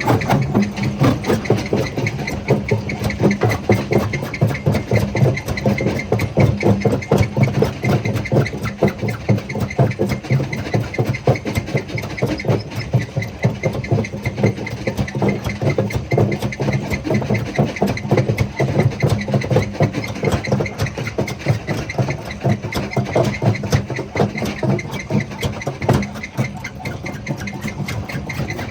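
Jaw crusher running under load, with a steady low hum from the drive and dense, irregular clatter and cracking of stones being crushed.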